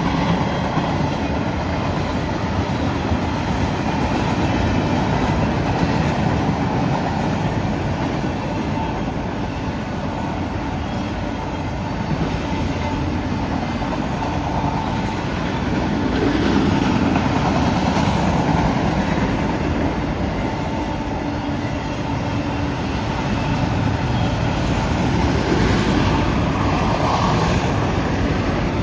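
Long freight train's cars rolling past on steel wheels, a steady rumble with slight swells.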